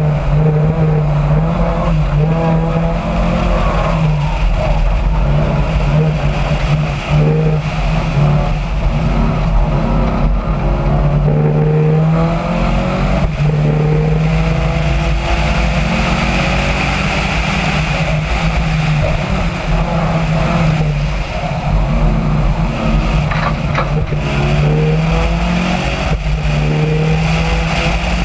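Rally car engine driven hard, heard from a camera mounted on the car: the revs climb and drop back again and again as it accelerates and shifts through the gears between corners.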